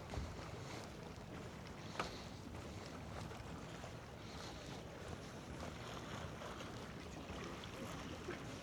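Seaside outdoor ambience: a faint, steady low rumble with a few light ticks and one sharp tap about two seconds in.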